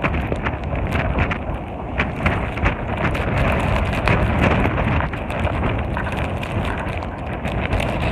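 Blizzard wind buffeting the microphone in a steady low rumble, peppered throughout with many small sharp ticks.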